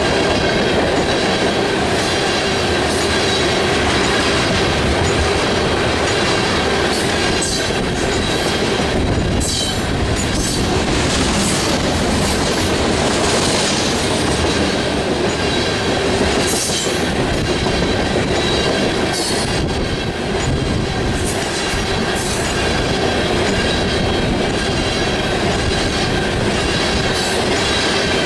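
Freight train rolling past close by: a steady, loud rumble of wheels on rail, with scattered clanks over the rail joints and a thin, steady wheel squeal.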